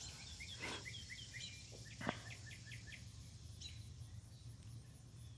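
Small bird giving a quick run of short chirps, then a second shorter run about two seconds in, over a faint steady buzz of insects; a sharp tick sounds at the start of the second run.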